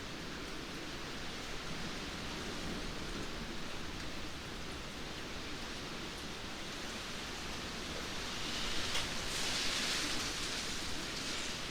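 Steady rainfall, an even hiss, growing louder and brighter about three-quarters of the way in as the rain comes down harder.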